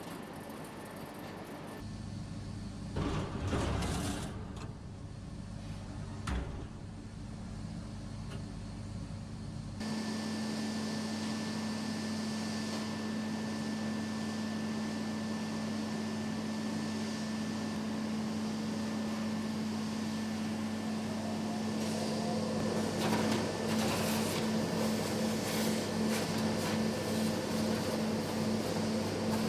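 Steady mechanical hum of industrial machinery, changing abruptly twice in the first ten seconds, with a brief clatter and a single knock early on. Later the hum steadies into one even tone, which begins to pulse a couple of times a second about two-thirds of the way through.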